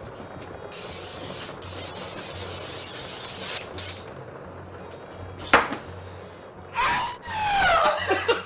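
A loud spraying hiss lasting about three seconds. Then a sharp click about five and a half seconds in, and near the end a short sound sliding down in pitch.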